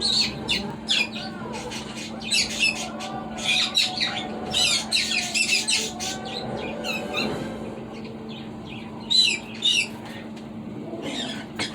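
Conures chirping and squawking in clusters of short, sharp, high-pitched calls separated by pauses, over a steady low hum.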